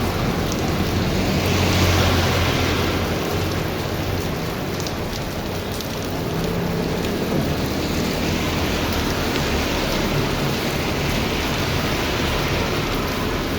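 Heavy rain pouring steadily, swelling louder about two seconds in with a low rumble.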